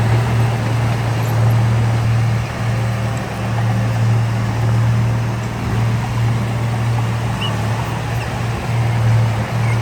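Diesel engine of heavy earthmoving machinery running steadily with a low, even hum and a rough noisy wash over it, its level wavering slightly.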